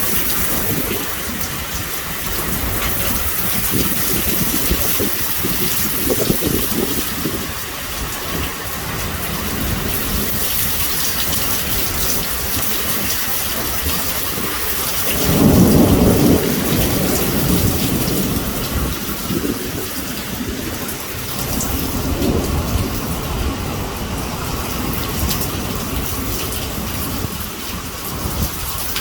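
Heavy rain pouring steadily in a severe thunderstorm, with thunder rumbling. A loud clap of thunder comes about halfway through.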